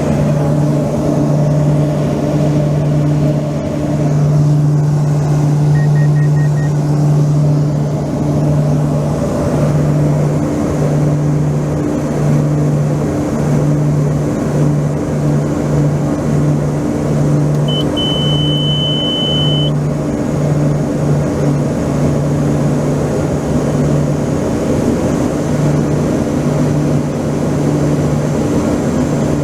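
An engine running steadily, its low drone pulsing slightly, with a brief high steady tone lasting about two seconds around two-thirds of the way through.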